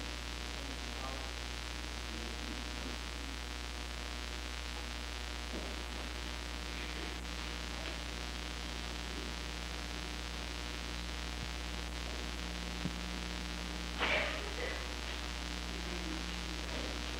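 Steady electrical hum and hiss from a worn VHS tape recording, with one brief faint sound about fourteen seconds in.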